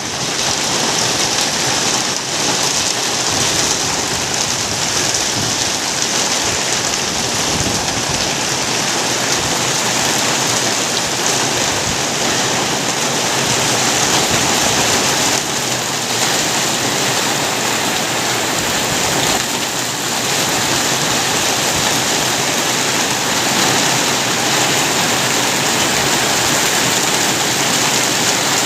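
Rain falling steadily, a loud, even hiss with no break.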